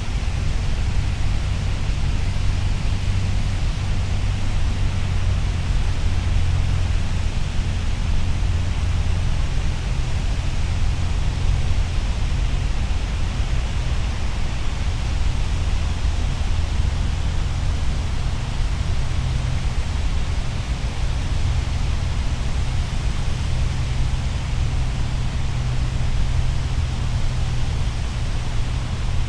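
Steady rush of falling water, an even hiss with a heavy low rumble underneath and no breaks or separate events.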